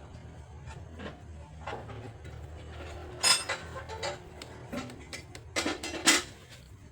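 Small metal parts and tools being handled: scattered clicks and clinks, a ringing clink about three seconds in and a cluster of louder clinks near the end, over a steady low hum.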